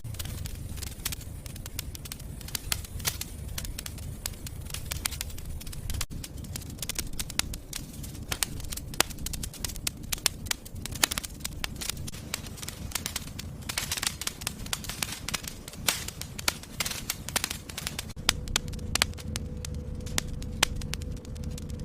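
Fire burning in a fireplace, crackling with many irregular sharp pops over a low steady rumble.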